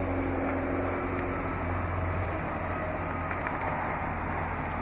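Steady idle of a 2014 Chrysler 300C's 5.7-litre Hemi V8, heard from inside the cabin: an even low hum with a constant rush of air noise over it.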